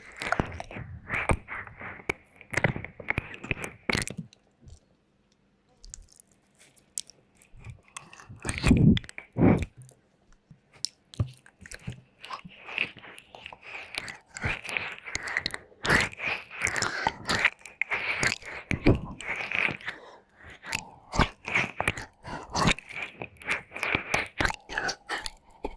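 Wet mouth sounds and licking close on a microphone: quick wet clicks and smacks. They pause briefly a few seconds in, a louder, deeper burst comes about a third of the way through, and then a dense run of clicks follows.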